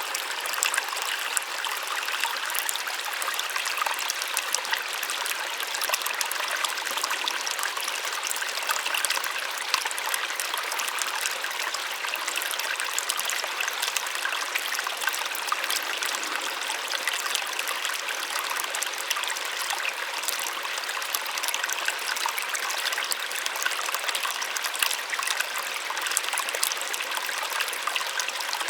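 Small waterfall splashing and trickling steadily, a continuous hiss of falling water with fine crackling spatter, mostly in the higher range with little deep rumble.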